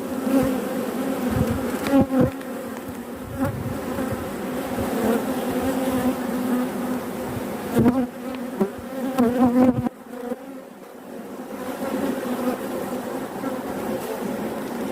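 Honeybees buzzing around an open hive, a steady hum with a few low knocks near the start and about eight seconds in.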